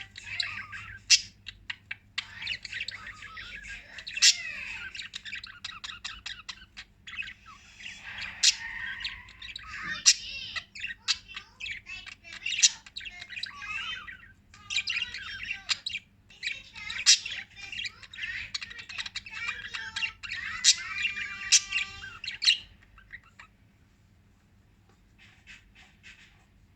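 Pet lovebirds chirping and squawking in busy, rapid chatter with sharp calls, dying down near the end.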